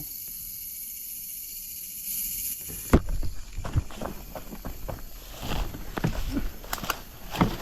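A steady high insect hiss. About three seconds in, a sharp knock, then irregular scuffling, rustling and knocks of someone moving quickly over leaf litter and stones, going after an escaping snake.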